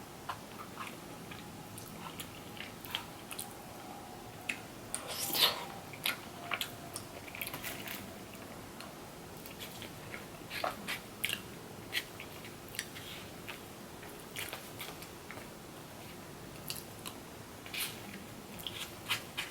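Close-up eating sounds: a person chewing and biting food, with wet mouth smacks and clicks scattered throughout and one louder bite about five seconds in.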